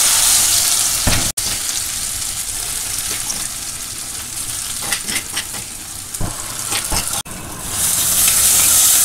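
Crushed shallots and chilli sizzling as they drop into hot coconut oil in a brass pan, with a spoon stirring and scraping against the metal. The sizzle is loudest at the start and again near the end.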